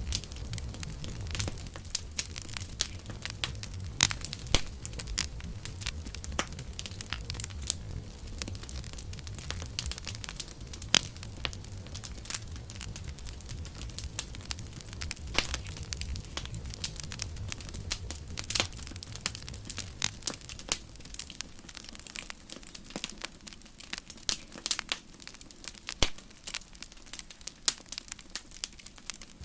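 Campfire burning: wood crackling and popping in sharp, irregular snaps, over a low rumble of the flames.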